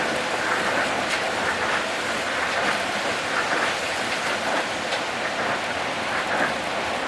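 Tokyo Monorail train running, heard inside the car: a steady hiss and rumble from its rubber tyres on the guideway beam, with a few faint clicks.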